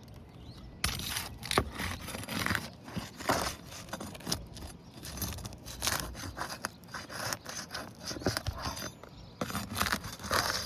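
Hand tool scraping and clicking against asphalt roof shingles while working a stuck shingle staple loose, in irregular scrapes and sharp clicks that start about a second in.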